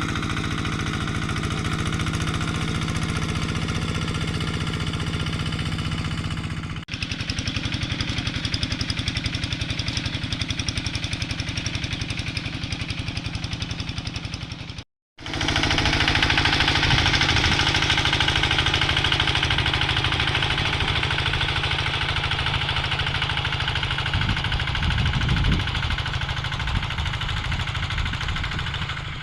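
Quick G3000 two-wheel hand tractor's single-cylinder diesel engine running steadily with a rapid knocking beat, working under plowing load. It dips about seven seconds in and cuts out for a moment about fifteen seconds in.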